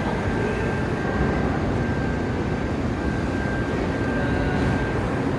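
Steady low rumble of background machinery noise, with a faint, steady high whine.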